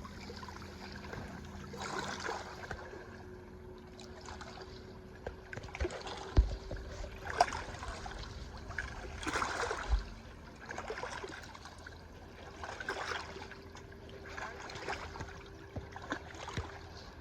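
Water lapping and splashing around a boat in soft surges every second or two, over a faint steady hum, with a couple of dull knocks.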